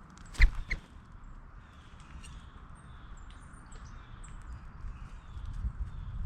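Two sharp knocks about half a second in, then scattered faint bird chirps over a low rumble that grows louder near the end.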